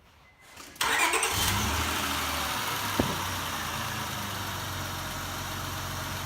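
Car engine starting about a second in, running high for a moment, then settling into a steady idle just after an oil change. A single sharp click sounds partway through.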